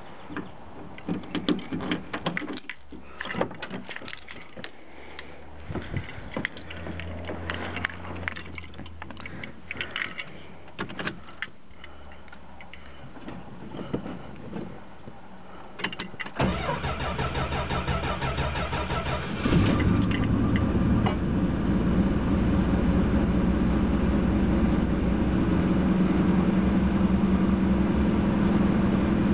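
Scattered clicks and knocks, then a 1973 Dodge Dart's slant-six engine cold-starting at 40°F. The starter cranks evenly for about three seconds, and the engine catches on the first try and settles into a steady, smooth idle.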